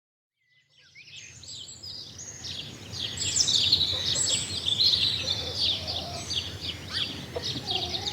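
Many small songbirds chirping and twittering at once, a dense overlapping chorus of short high notes that fades in over the first couple of seconds, over a low steady background rumble.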